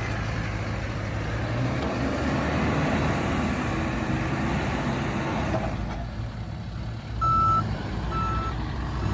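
A John Deere 310SK backhoe's diesel engine running steadily, its noise easing off about six seconds in. Near the end its reverse alarm beeps twice, each beep a single steady tone.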